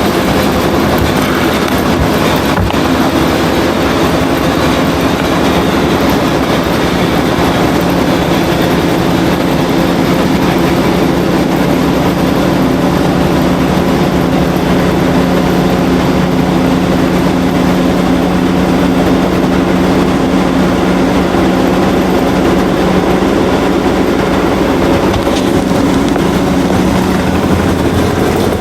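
Washing machine running, a loud steady rumble with a constant low hum from the spinning drum and motor.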